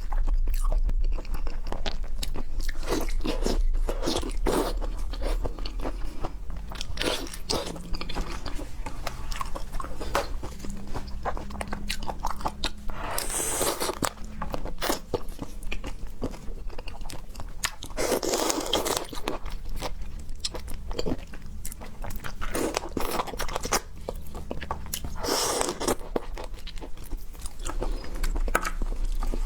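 Close-miked chewing and biting of raw seafood: wet crunching and mouth clicks throughout, with several louder bites spaced through the middle and later part, over a low steady hum.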